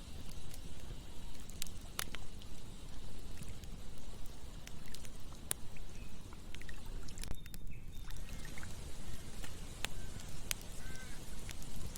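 Campfire crackling, with scattered sharp pops of burning wood, over a steady rush of running water from a river.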